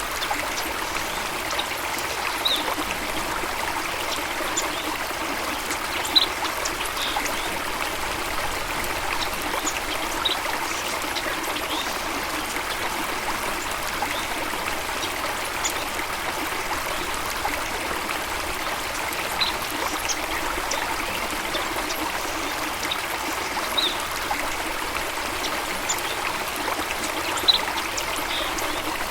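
Running water of a stream, trickling and splashing steadily, with a brief high-pitched chirp every few seconds.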